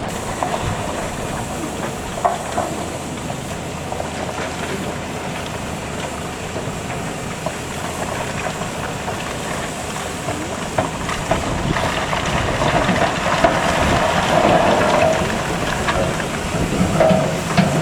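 A train moving along the platform, wheels clicking over rail joints, with a hissing noise that swells louder about twelve seconds in.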